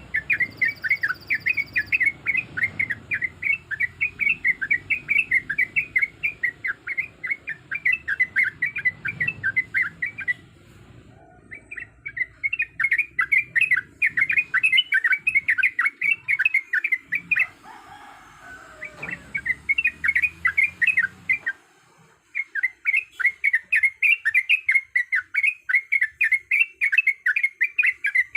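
Yellow-vented bulbul (trucukan) singing a fast, bubbly chattering song of quick chirped notes, several a second, in long runs broken by three short pauses.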